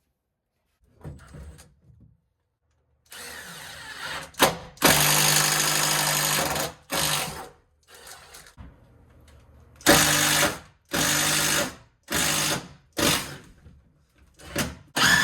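Power drill boring a hole through the wall for a cable run. It is triggered in bursts: one long run about five seconds in, then several shorter runs of about a second each near the end.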